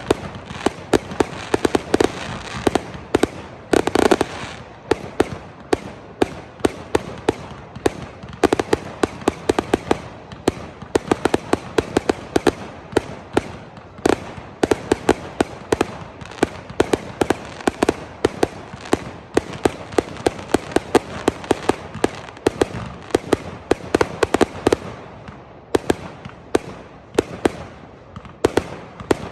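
Fireworks display going off in rapid succession: dense sharp bangs and crackles several times a second, with a heavier burst about four seconds in.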